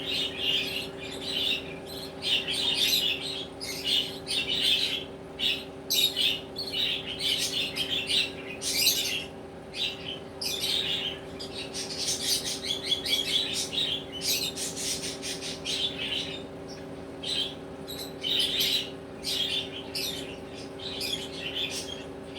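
Budgerigars chattering with rapid, continuous high chirps and squawks, over a steady low hum.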